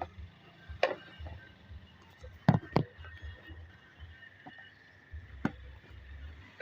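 Plastic parts of a handheld car vacuum cleaner being handled and pushed together as an attachment is fitted, giving a few sharp clicks and knocks, the loudest a quick pair in the middle, over low handling rumble.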